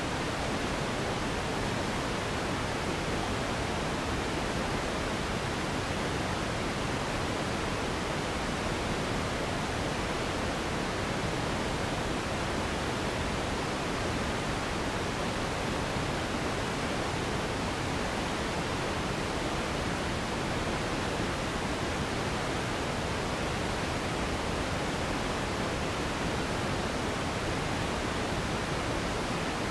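Steady pink noise: an even, unchanging hiss across all pitches, weighted toward the lower ones.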